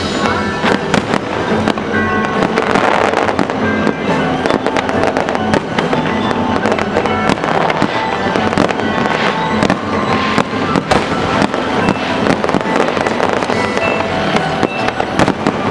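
Aerial fireworks display bursting continuously, many sharp bangs and crackles in quick succession, with music playing along under them.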